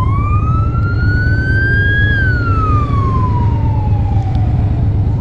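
Emergency vehicle siren wailing: one slow wail that climbs for about two seconds, then falls away. Under it is the steady low rumble of a motorcycle riding in traffic.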